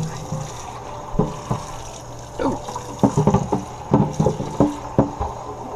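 Kitchen tap running while a humidifier water tank is rinsed under it. Water splashes and sloshes, and the tank knocks repeatedly against the sink in the second half.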